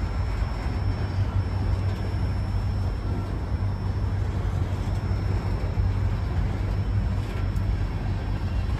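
Freight train cars rolling past: a steady rumble of steel wheels on rail as a string of autorack cars and then a tank car go by.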